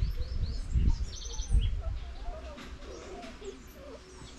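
Small birds chirping: repeated short, high, falling chirps, with a quick run of several just after a second in and mid-pitched wavering calls later. Low buffeting noise is loudest in the first two seconds and fades after.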